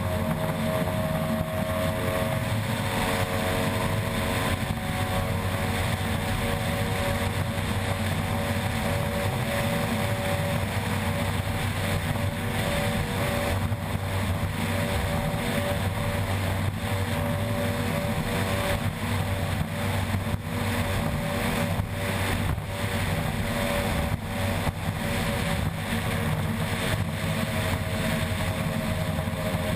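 Outboard-powered ski race boat's engine running hard at a steady, unbroken pitch, with a dense rush of wind and water noise and many brief dips in level.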